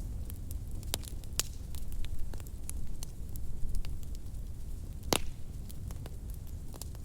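Wood fire crackling in a fireplace: a steady low rumble of the flames under frequent sharp pops and snaps, the loudest pop about five seconds in.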